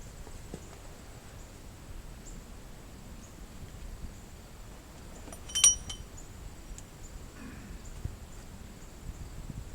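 A single sharp metallic clink with a brief ring, about halfway through, over faint background noise and a thin steady high whine.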